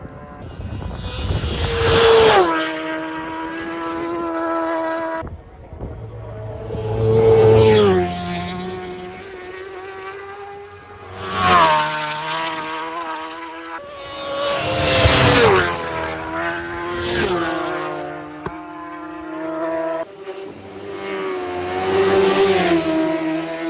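Superbike racing motorcycles passing flat out one after another, each engine note rising to a peak and then dropping sharply in pitch as it goes by. There are about six passes, with abrupt cuts between some of them.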